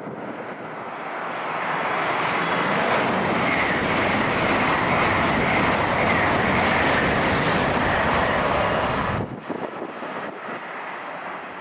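Train passing: a rushing noise that builds over the first two seconds and holds loud with a faint steady high whine, then cuts off suddenly about nine seconds in.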